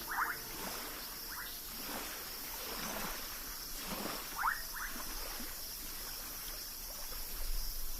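Night-time wildlife ambience: a steady high insect drone, broken by short rising chirps, once near the start, again about a second later, and as a quick pair about halfway through.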